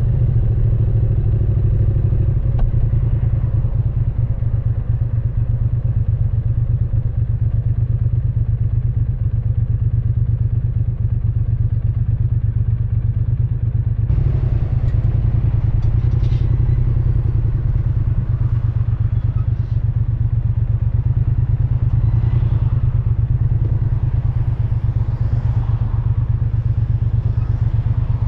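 Triumph Speed Twin 900's 900 cc parallel-twin engine running steadily, its exhaust a low, even pulsing. About halfway through, a hiss of wind and road noise comes in over it.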